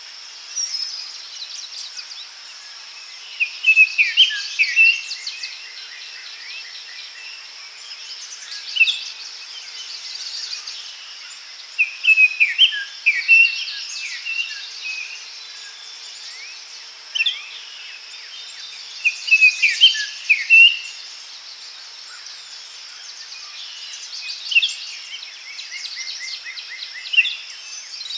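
Forest daytime ambience: songbirds singing short phrases of chirps and trills every few seconds over a continuous high buzz of insects.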